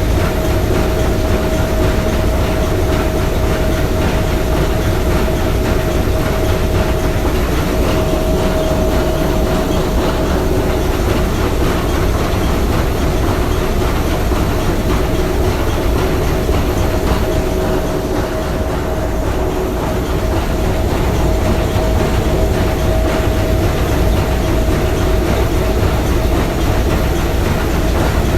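Three-cylinder triple-expansion marine steam engine of the S.S. Bohuslän running steadily: a loud, dense mechanical clatter with a steady high-pitched tone.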